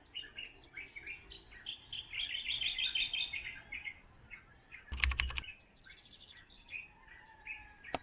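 Wild birds chirping and calling, a busy run of short falling chirps for the first few seconds, then thinning out. About five seconds in comes a quick run of four or five clicks.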